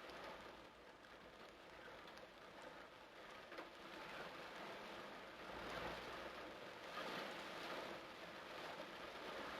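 Torrential rain pouring down, a steady hiss that swells a little about six and seven seconds in.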